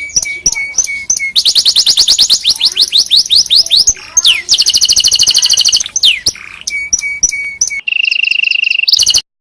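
Domestic canary singing a fast, varied song: phrases of rapidly repeated high notes and quick rolling trills, one after another, cutting off abruptly near the end.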